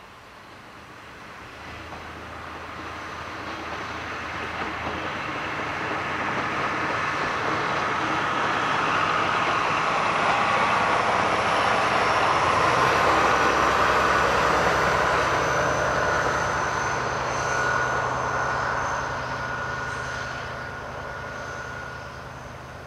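A diesel-hauled passenger train passing: the rumble of its wheels on the rails and the steady drone of the diesel locomotive's engine grow louder, peak around the middle as the coaches and then the locomotive go by, and fade as the train moves away.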